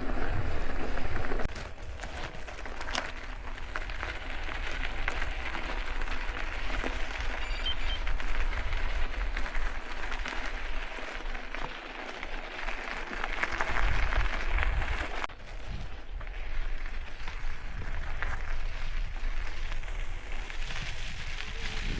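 Mountain-bike tyres rolling over a dirt Jeep trail: a steady crackling hiss with scattered clicks, with wind rumbling on the microphone.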